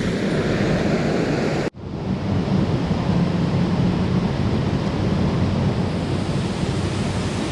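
Steady rush of a mountain stream's flowing water. It cuts off suddenly to silence less than two seconds in, then comes straight back.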